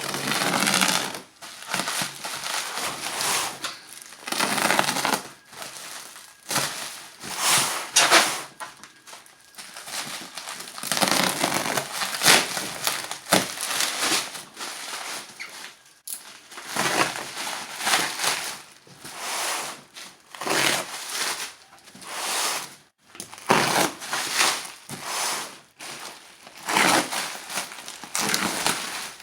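Packaging being handled and opened: irregular crinkling and crushing, in bursts that come and go every second or so.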